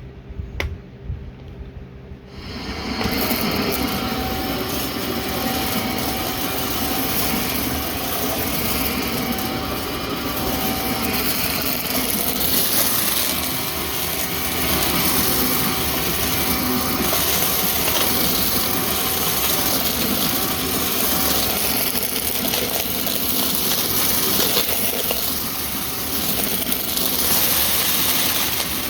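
Vacuum cleaner switched on after a couple of clicks, then running steadily with a loud, even rushing sound and a faint steady whine.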